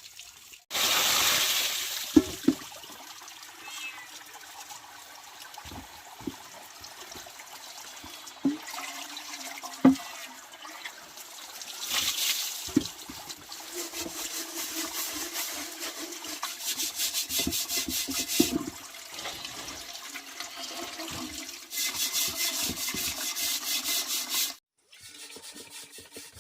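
Water pouring and splashing in several bursts, some of them pulsing unevenly, with short knocks between them.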